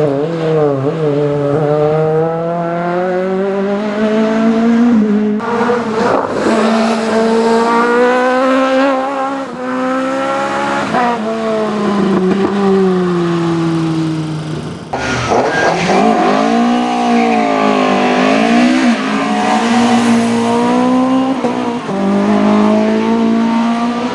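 Race car engine at full throttle, its pitch climbing in each gear and dropping at each upshift, then falling away as it eases off. About fifteen seconds in the sound changes abruptly to a race car whose revs swing quickly up and down, then hold fairly steady.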